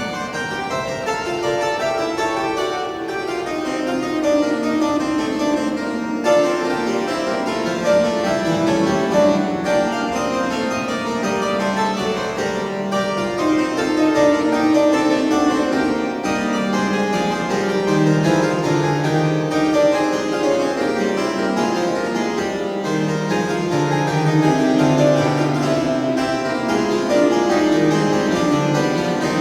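Harpsichord playing a piece, with a steady stream of quick, overlapping plucked notes.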